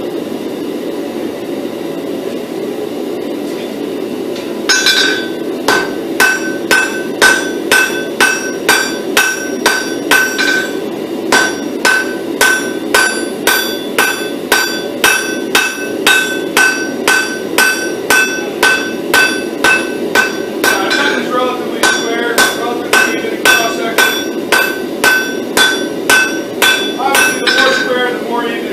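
Blacksmith's hand hammer striking a hot pattern-welded steel billet on an anvil, drawing it down: a steady run of blows, about two a second, each with a clear ring from the anvil, starting about five seconds in with brief pauses. A steady low hum runs underneath.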